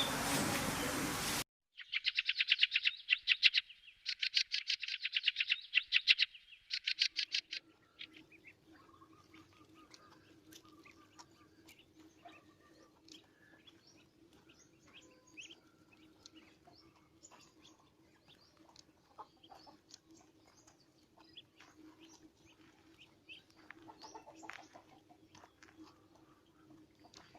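A burst of hiss cuts off about a second and a half in. Then a bird gives three loud bursts of very fast, rattling trills, and after that only scattered faint chirps remain over a steady low hum.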